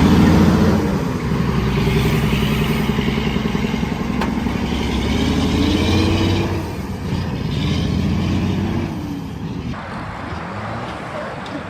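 Vehicle engine revving hard under heavy throttle, its pitch rising and falling again and again. Near the end it drops abruptly to a quieter engine sound.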